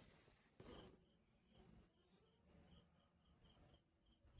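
Insect chirping faintly at night in four short high trills, about one a second.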